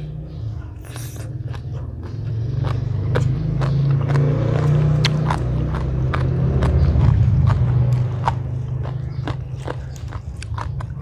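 Close-up eating sounds: chewing and crunching papaya salad with many small sharp clicks. Under it, the low rumble of a vehicle passing swells up from about two seconds in, peaks past the middle and fades near the end.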